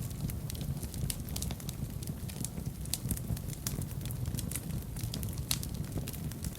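Wood fire burning in a fireplace, crackling and popping irregularly over a low steady rumble.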